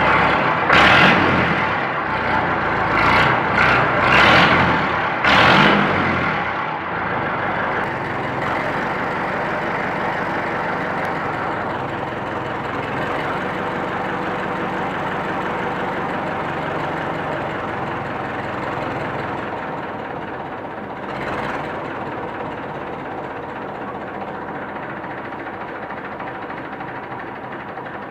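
Massey Ferguson 65 Mk2 tractor's four-cylinder engine running through a straight pipe with no muffler. It is blipped four times in the first six seconds, then settles to a steady idle, with one small blip about three quarters of the way through.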